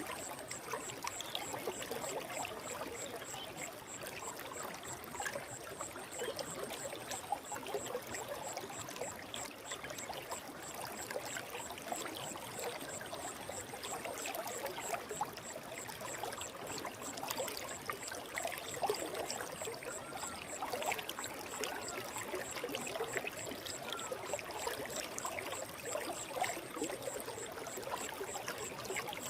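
Forest stream flowing: a steady trickling, burbling wash of water.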